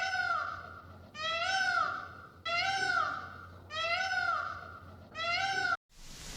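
An animal calling over and over: five high calls about a second and a quarter apart, each rising then falling in pitch. The last call is cut off abruptly near the end.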